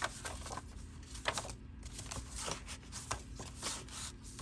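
Paper and cardstock pages being handled, rustling and sliding against each other and the table in a series of short rubs and scrapes with a few light taps.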